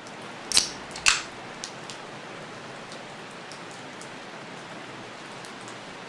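Rain falling steadily, an even hiss with scattered drops ticking close by; two sharp, louder drop hits about half a second and a second in.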